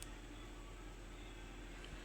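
Faint steady background hum and hiss: room tone, with no distinct events.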